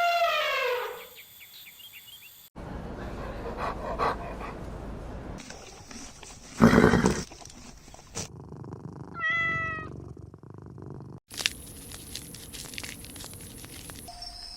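A run of short, separately cut animal calls. It opens with a pitched call falling in pitch, has a loud harsh noisy call about six and a half seconds in, and a short pitched call near the ten-second mark.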